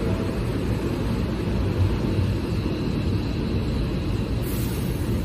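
Nose Electric Railway 7200 series electric train rolling along the platform at low speed: a steady rumble of wheels on rail.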